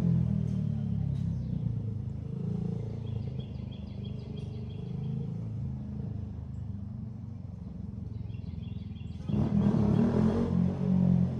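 Motorcycle engine running as the bike circles the lot. It eases off in the middle and gets suddenly louder again about nine seconds in.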